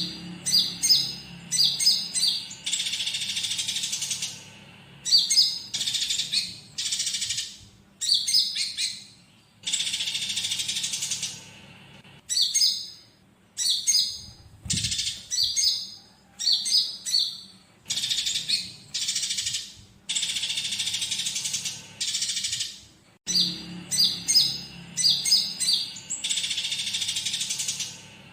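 Konin songbird singing in repeated phrases: a cluster of sharp high chirps, then one to two seconds of dense, harsh chattering, recurring every two to three seconds. The chatter is song filled with fighting Eurasian tree sparrow calls, recorded as a tutor track for cagebirds. A faint low hum lies under it.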